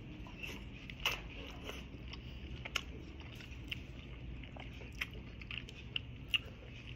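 Chewing a mouthful of pancit noodles eaten by hand, faint, with scattered small mouth clicks and smacks.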